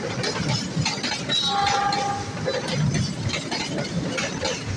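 Passenger train coaches rolling past close by, their wheels clattering over the rails with a running rumble. A short steady tone sounds about a second and a half in.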